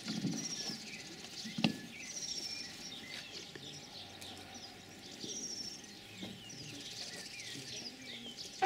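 Small birds chirping and twittering, with several short high whistles among the chirps. A single sharp knock about one and a half seconds in.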